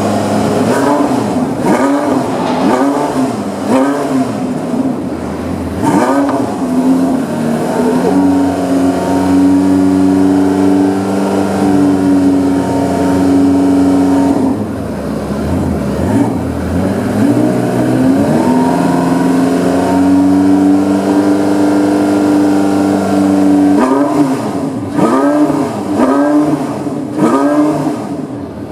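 Porsche 918 Spyder's V8 engine being revved while stationary. It starts with a series of quick blips, is then twice held at a steady rev for several seconds, and goes back to quick blips near the end.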